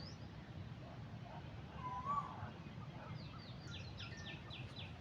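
Wild birds calling: one wavering mid-pitched call about two seconds in, then a fast series of short, high, down-slurred notes, about five a second, starting past the middle. A steady low background rumble runs beneath.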